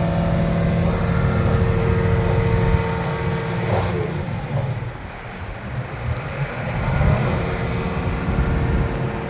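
John Deere 750K LGP crawler dozer's diesel engine running at idle, with a steady whine over the engine note. The sound dips about halfway through and then comes back up.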